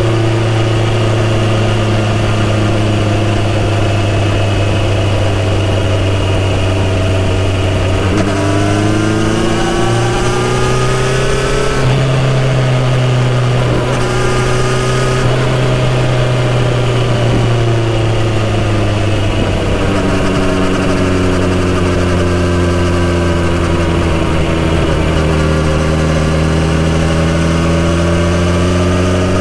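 Kawasaki Z900RS inline-four motorcycle engine through a full-system exhaust, ridden on the road. The engine pitch climbs sharply under acceleration about a third of the way in and again around the middle, dropping back each time. It then eases down and slowly builds again near the end.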